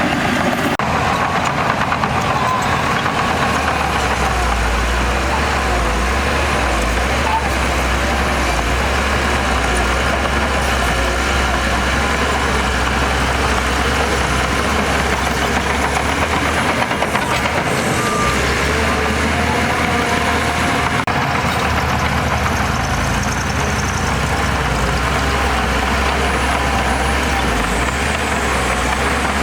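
Heavy earthmoving machinery with its diesel engine running steadily and loudly at a worksite.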